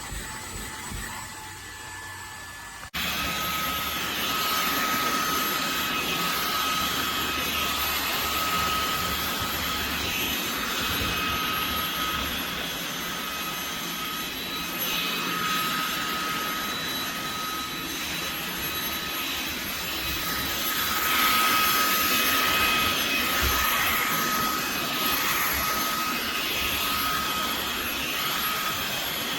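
Cordless handheld vacuum (Fanttik Slim V8 Apex) running steadily: a rushing of air with a high motor whine. It starts abruptly about three seconds in.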